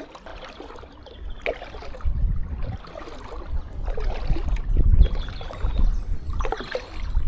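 Kayak paddle strokes splashing and dripping water from the blades, with wind buffeting the microphone as an uneven low rumble from about two seconds in.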